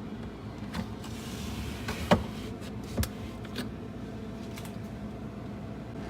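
Plastic refrigerator bins and containers being handled: a short scraping slide, then a few light knocks and clicks. The loudest knock comes about two seconds in. A steady low hum runs underneath.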